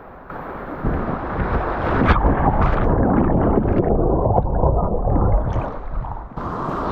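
River water rushing and splashing around a whitewater kayak, with a heavy low rumble of wind and water on the camera microphone. It gets much louder about a second in and drops off abruptly near the end.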